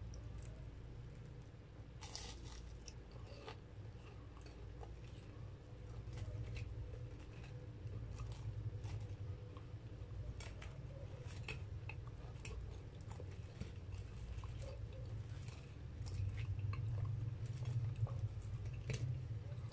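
Close-up eating sounds of breadcrumb-coated corn dogs: chewing with scattered crisp crunches and small clicks, over a steady low hum that grows a little louder near the end.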